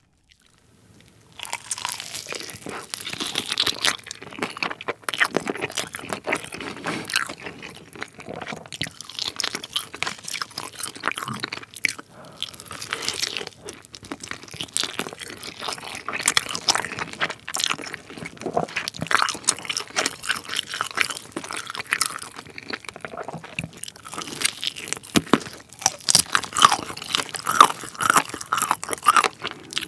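Close-miked biting and chewing of a sauced fried chicken drumstick, the Cheogajip Supreme yangnyeom leg: crunching crust and wet chewing as the meat is torn from the bone, starting about a second in.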